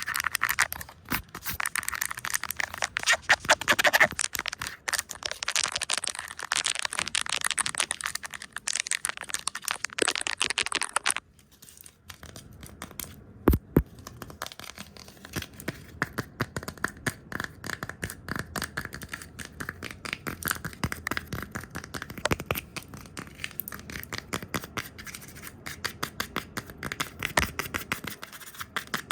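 Fast, aggressive ASMR brushing and tapping right at the microphone. For about the first eleven seconds it is a dense, scratchy flurry of strokes. After a sudden drop there is one sharp tap, then a run of quick, lighter taps.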